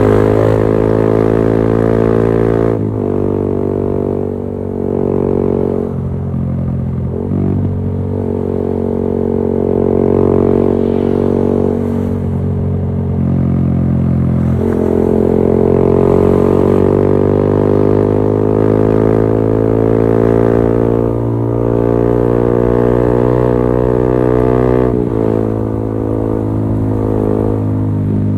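Yamaha XSR155's single-cylinder engine running through a LeoVince GP Corsa Evo aftermarket exhaust while riding, a steady, deep exhaust note. The pitch shifts several times with throttle and gear changes and climbs gradually about halfway through.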